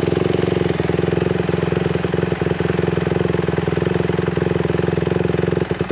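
150cc dirt bike engine idling steadily, with a brief dip in level just before the end.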